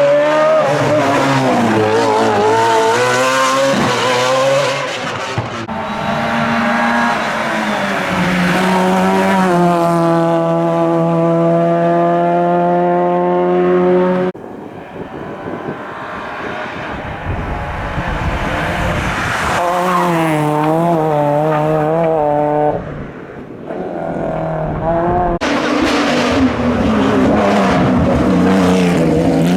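Hillclimb race cars driven flat out, engines revving hard and stepping through gear changes, with tyre squeal. The sound changes abruptly about halfway through and again near the end, as another car's run takes over.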